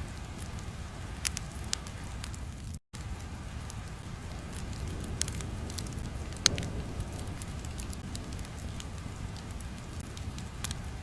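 Steady low rumbling ambience with scattered sharp crackles and pops, the loudest about two-thirds of the way through. The sound cuts out completely for a moment near the start.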